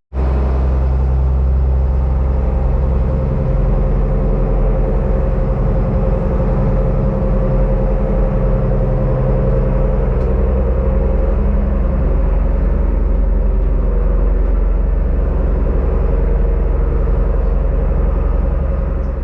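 Fishing boat's engine running steadily under way: a loud, even low drone with a steady higher whine over it.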